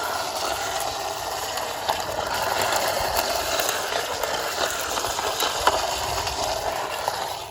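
Plastic toy fire rescue ambulance giving a dense, continuous clicking rattle of small gears or parts, which cuts off abruptly.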